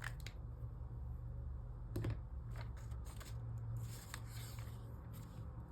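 Light scattered clicks and taps, with a brief rustle about four seconds in, over a low steady hum: small handling sounds at a desk.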